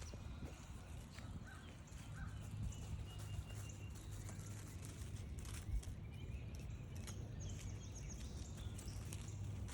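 Footsteps along a forest trail with songbirds calling, including a quick trill of high notes near the end, over a steady low hum.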